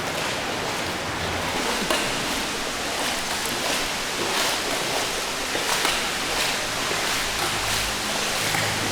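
Steady rush of flowing water from a river and waterfall, an even hiss with no breaks.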